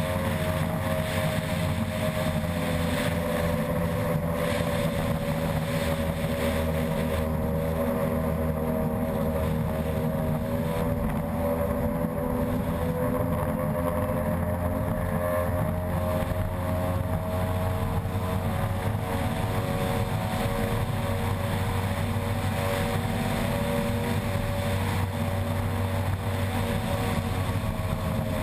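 Unlimited-class ski race boat's outboard engine running at steady high revs, its pitch wavering only slightly, over a rushing haze of wind and water.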